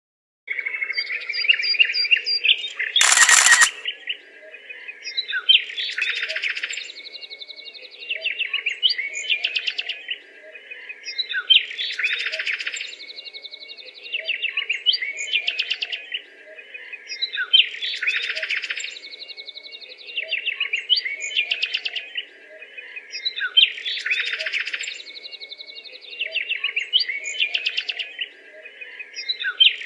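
Birds chirping and twittering, the same phrase recurring about every three seconds, over a faint steady hum. A short loud burst of noise about three seconds in.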